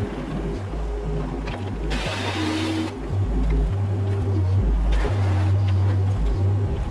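Mini excavator working: its diesel engine and hydraulics running with a low rumble that rises and falls, and a burst of hiss about two seconds in.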